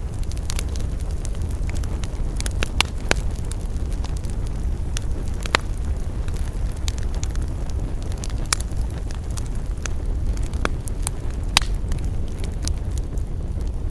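Wood campfire burning: a steady low rush of flames with frequent sharp crackles and pops, a few louder snaps among them.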